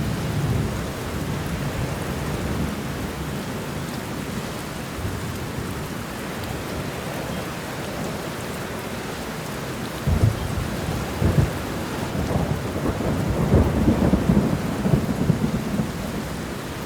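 Steady rain with thunder rumbling: a brief low rumble at the start, then a longer, louder rumble from about ten seconds in, with several sharp cracks along the way.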